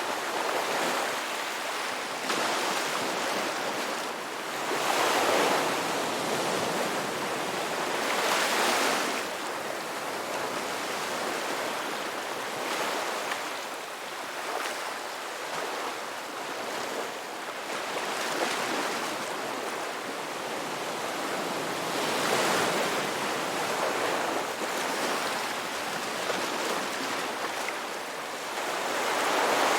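Ocean waves breaking and washing on the shore: a continuous surf hiss that swells every few seconds as each wave comes in and then recedes.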